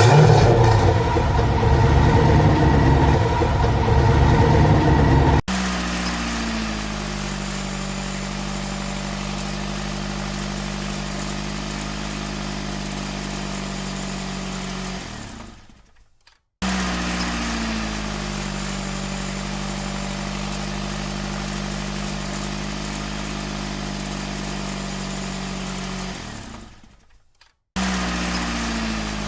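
Truck engine idling, the same stretch of engine sound repeating: each time it opens with a short drop in pitch, runs steady for about ten seconds, fades out, and starts again abruptly. A louder, busier engine sound fills the first five seconds.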